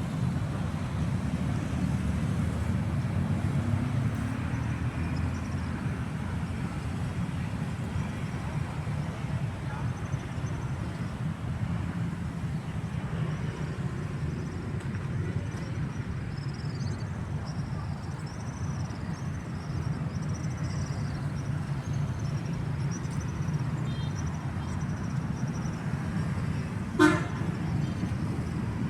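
Steady outdoor traffic rumble, with faint high chirps through the middle and one short horn toot about two seconds before the end.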